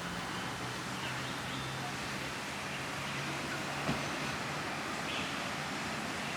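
Steady outdoor background noise with a faint low hum through the middle, a few faint short chirps, and a single sharp click near four seconds in.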